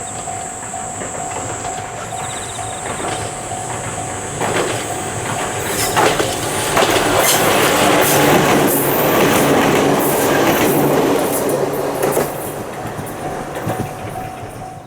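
Ohmi Railway electric train passing close by: its wheels clack over rail joints as it comes in, the run of the cars is loudest in the middle, then the sound falls away near the end.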